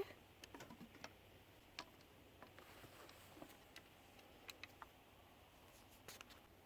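Near silence broken by faint, scattered small clicks and ticks at irregular intervals.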